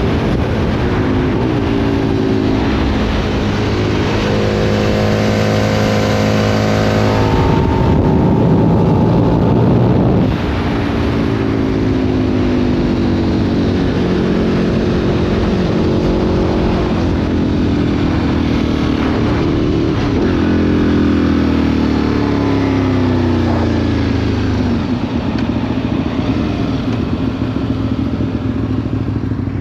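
Aprilia Tuono RSV 1000's 60° V-twin through a Remus exhaust, under way. It pulls up through the gears, its pitch climbing and dropping back at each shift, then falls in pitch as the throttle is eased off about two-thirds of the way in.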